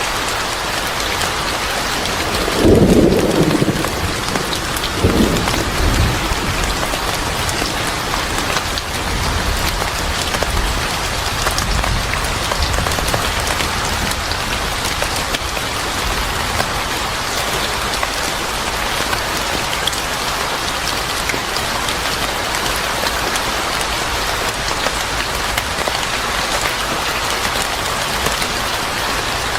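Steady rain falling, with a rumble of thunder about three seconds in and a shorter one a couple of seconds later.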